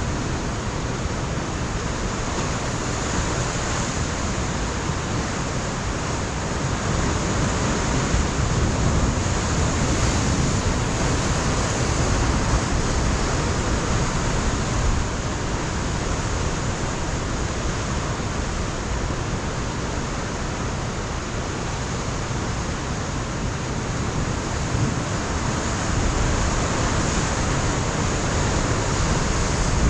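Ocean surf breaking against a rocky coastline, a continuous wash of water with slow swells as waves come in, with wind buffeting the microphone.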